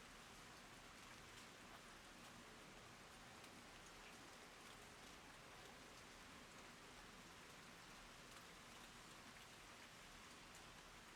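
Steady, faint rain falling, with scattered drops ticking through the even hiss.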